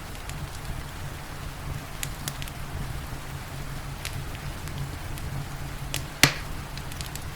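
Wood fire crackling with scattered sharp snaps and one loud pop about six seconds in, over a steady low rumble and the even hiss of rain.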